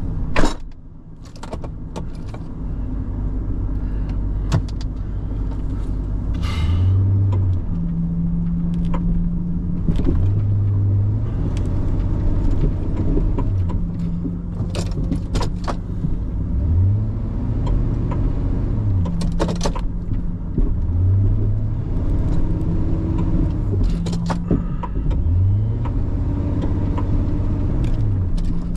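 A pickup plow truck's engine revving up and easing off over and over, about every three seconds, as the truck tries to drive out of deep snow. A single loud knock just at the start.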